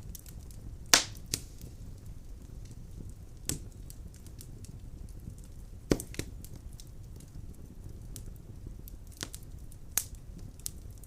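Firewood burning in a fireplace: a low steady rumble of flame with scattered sharp pops and crackles from the logs, the loudest about a second in and others every few seconds, with faint ticking in between.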